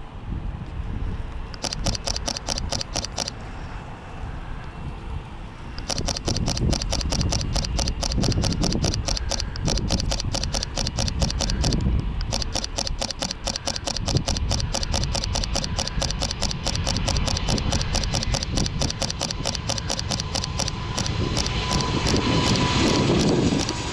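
Fujifilm X-T3 camera shutter firing in rapid continuous bursts, a short burst and then a long run of many shots a second, over low steady outdoor noise. Near the end a jet aircraft's engine noise swells as it approaches.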